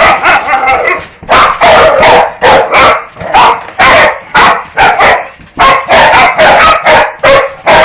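A dog barking loudly and repeatedly at a vacuum cleaner, in a fast run of about two to three barks a second.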